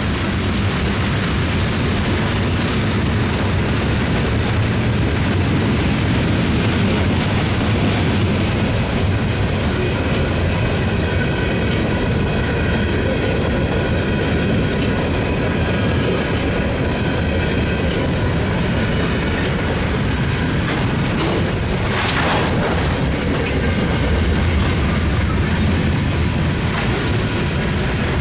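Freight train cars rolling past with a steady heavy rumble and wheel clatter, and a faint high steady whine from the wheels through the middle.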